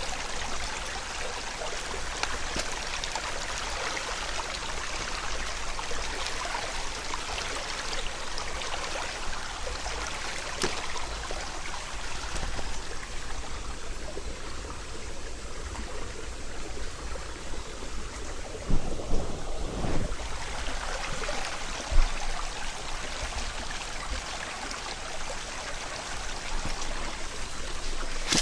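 Headwater mountain stream flowing steadily. A few brief louder thumps come about two-thirds of the way through.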